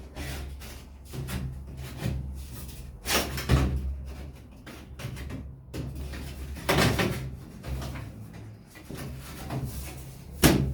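Repeated knocks and bangs of things being handled, like cupboard doors or objects being set down, with the sharpest knock near the end. A steady low hum runs underneath.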